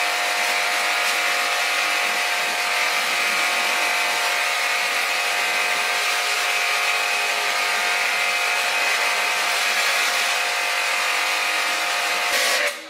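A power tool running steadily under load, a held motor whine over a harsh hiss, cutting off abruptly near the end.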